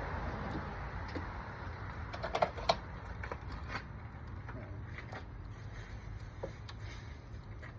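Scattered small clicks and taps of T30 Torx screws being handled and set into the tops of ignition coil packs, with two sharper clicks about two and a half seconds in.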